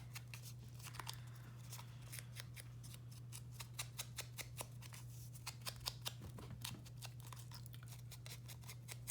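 Faint, quick, irregular clicks and taps of paper and small craft tools being handled on a tabletop, over a steady low electrical hum.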